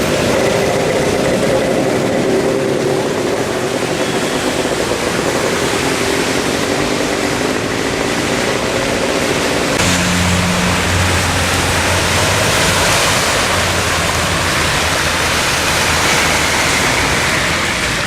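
Steady rushing of floodwater, with vehicle engines running underneath. About ten seconds in the sound changes abruptly and a lower engine hum takes over.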